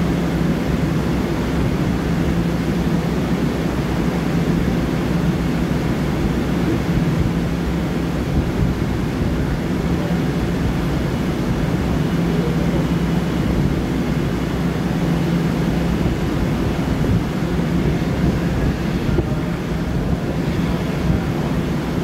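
Long Island Rail Road M7 electric commuter car standing still, its onboard equipment running with a steady hum over a constant rushing noise.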